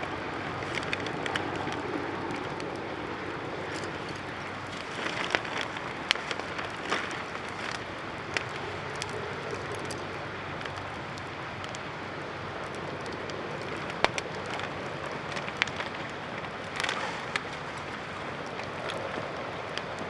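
Driftwood campfire burning, crackling with scattered sharp pops over a steady rushing hiss.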